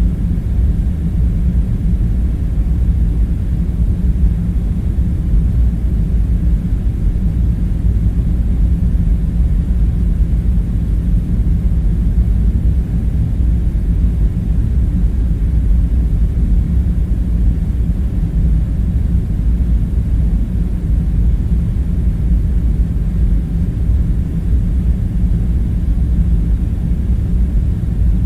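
Steady low rumbling drone of a room ambience bed, even and unchanging, with no distinct events.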